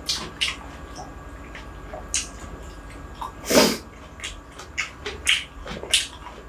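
Close-miked mouth sounds of eating rice by hand: wet chewing and lip-smacking clicks, with one louder, longer smack about halfway through.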